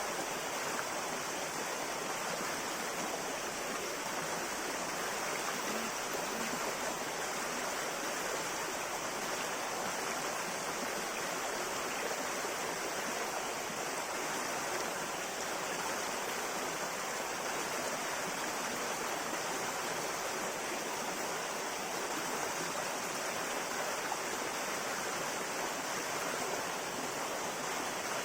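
River water flowing, a steady, even rush that does not let up.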